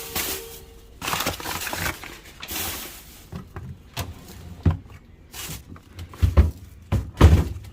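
Food containers and other items being handled and taken out of a switched-off refrigerator: scattered knocks, clicks and rustles, with a few heavier thumps near the end.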